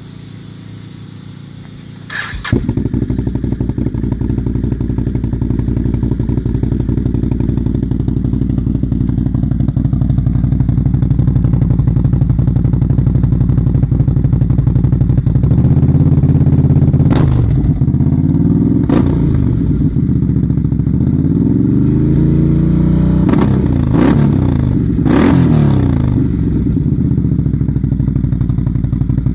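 Can-Am Renegade ATV's V-twin engine starting about two seconds in, through a straight-through DC Sports glass-pack muffler, and idling. It is then revved in several rising and falling blips with a few sharp cracks among them, before settling back to idle.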